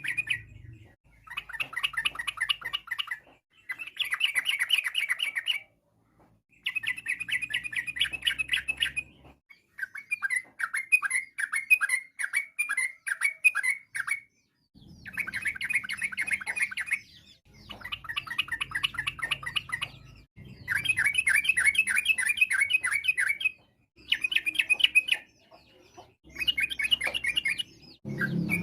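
Sooty-headed bulbul (trucukan) singing: phrases of rapid, quick-fire notes, each one to four seconds long, repeated about nine times with short pauses between them.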